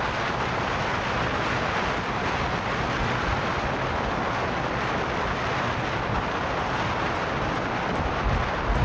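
Car driving along a city street: steady road and running noise, with a couple of low thumps about eight seconds in.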